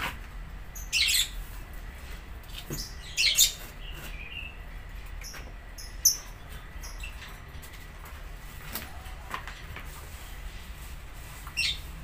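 A small bird giving several short, high chirps spaced a few seconds apart, the loudest about a second in, around three seconds in, six seconds in and near the end.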